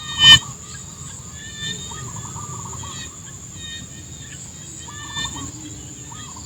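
Rice-paddy chorus of insects and other animals calling: a steady high-pitched insect drone, with repeated short wavering calls over it. A single loud, short call stands out about a third of a second in.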